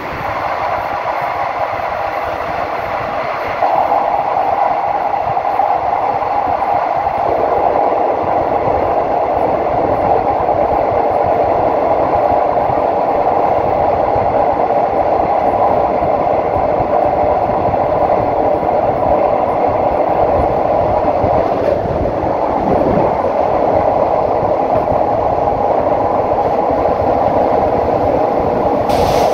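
Passenger train running on elevated track, heard from a carriage window: a steady rush of train running noise that gets louder about three and a half seconds in.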